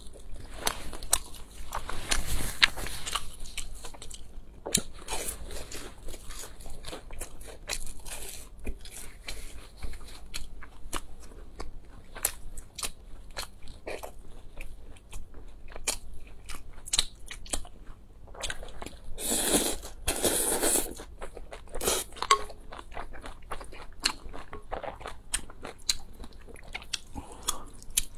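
Close-miked eating sounds: crunchy bites and chewing, as many quick sharp crackles, with a few longer, louder noisy stretches, the biggest about twenty seconds in.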